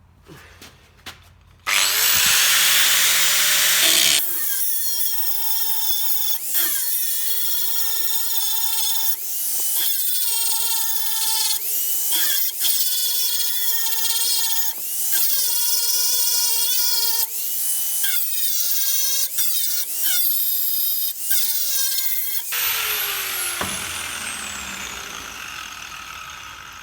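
Electric power tool running, its motor repeatedly revving up and settling in pulses about every second or two, with a loud hiss at the start and a fade near the end.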